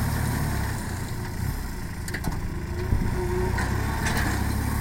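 Kubota farm tractor's diesel engine running steadily, a low even hum.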